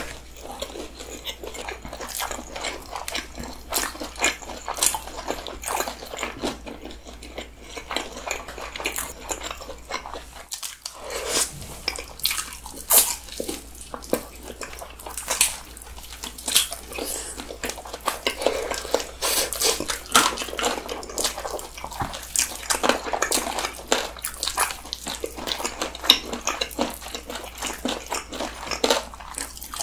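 Two people chewing and biting into seasoned fried chicken close to the microphone: dense, irregular crackling of the coating and wet mouth clicks, with a brief lull about ten seconds in.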